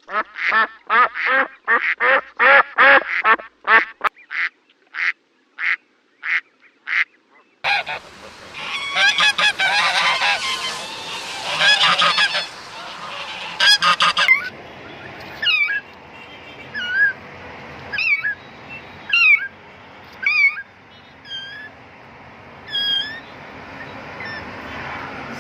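Geese honking: a quick run of repeated honks that slows, then a noisier recording of a flock calling over one another, thinning out to single honks about once a second.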